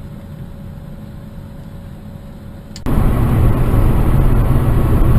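Vehicle road and engine noise as heard from a dashcam: a steady low rumble with a faint steady hum. Nearly three seconds in, a click is followed by a sudden jump to a much louder, rougher rumble that stays loud.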